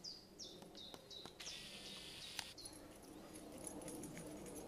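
Quiet woodland ambience: a few short, falling bird chirps in the first second or so, then scattered faint ticks as the huskies trot toward the camera on the dirt path.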